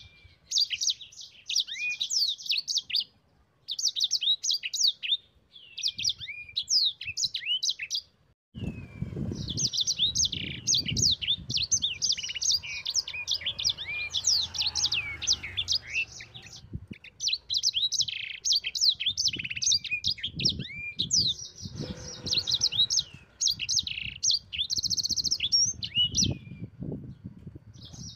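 A caged yellow-fronted canary (Mozambique canary, 'sanger') in full song: fast, high twittering and warbling phrases delivered in bursts with brief pauses. Low knocks and rumbling come in about a third of the way through and again in the later part.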